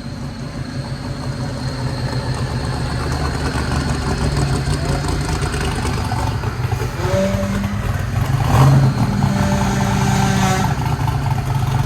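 Twin-turbo Corvette Z06 V8 running on a chassis dyno during a pull, getting steadily louder. In the second half it holds a steady note for a few seconds, which the tuner takes at first for the engine hitting boost cut.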